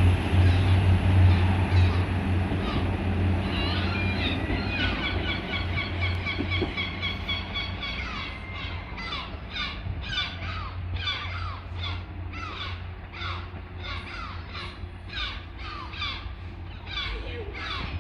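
A bird calls over and over in a harsh, pitched series, about two calls a second. Under it, the low rumble of a diesel train engine fades away over the first half.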